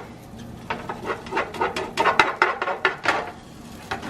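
A kitchen utensil clattering and scraping against cookware in a quick, uneven run of short strokes, about five a second, that stops a little after three seconds in.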